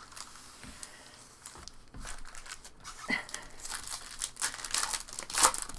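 Foil wrapper of a Topps baseball card pack crinkling and tearing as it is handled and opened, louder from about two seconds in.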